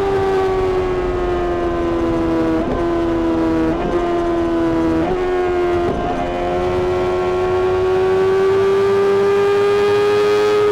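Honda CBR600RR's inline-four engine through a Mivv exhaust, screaming at high revs with a steady high-pitched note. There are four brief breaks in the note, a second or so apart, around the middle; after them the revs climb slowly.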